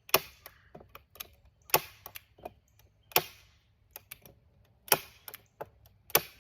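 Staple gun firing staples: five loud, sharp snaps about one and a half seconds apart, with fainter clicks between them.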